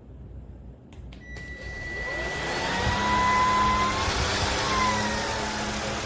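A motor starting up after a couple of clicks, its whine growing louder over about two seconds and then running steadily, with a high whistle that dips in pitch near the end.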